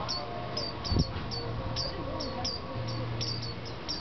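Short, high chirps repeated irregularly, about three a second, each dropping slightly in pitch, as of a small bird calling. A single thump about a second in is the loudest sound.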